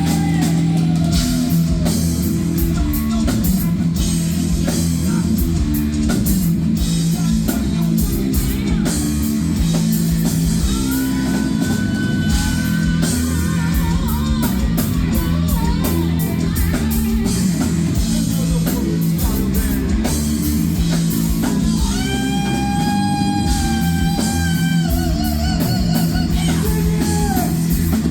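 Heavy metal band playing live and loud: distorted electric guitar riff, bass and drum kit with constant cymbal crashes. Long held high lead notes with vibrato come in about halfway through and again near the end.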